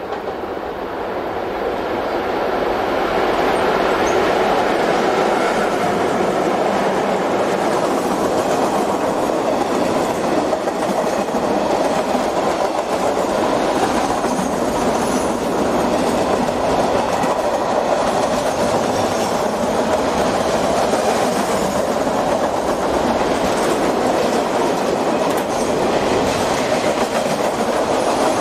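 Electric-hauled freight train approaching and passing close by, growing louder over the first few seconds. Then a steady run of wagons going by, with wheels clicking over the rail joints.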